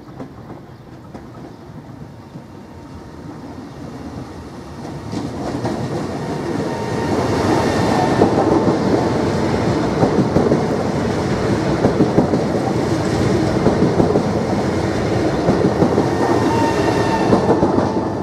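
Trenitalia ETR425 'Jazz' electric multiple unit running past along the platform. Its rolling noise grows over the first several seconds as it approaches, then holds steady and loud with a dense clatter of wheels over the rails as the cars go by. It eases off right at the end.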